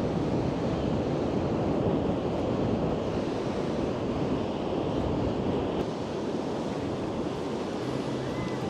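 Waves breaking and washing up a sandy beach, a steady rushing surf noise, with wind on the microphone.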